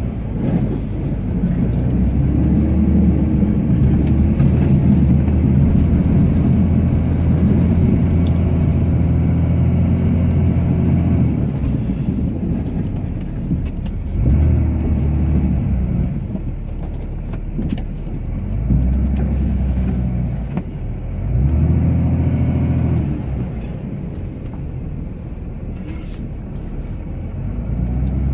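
Dodge Ram's Cummins turbo-diesel inline-six working while plowing snow. It holds a steady pitch for about the first eleven seconds, then revs up and settles back three times.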